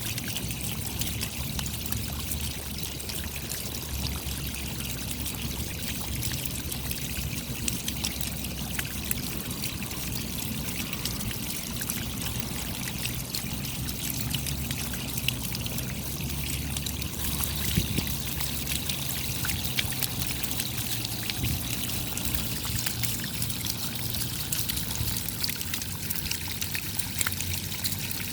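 Steady rain: a dense patter of many small drops over a constant rush of running, trickling water.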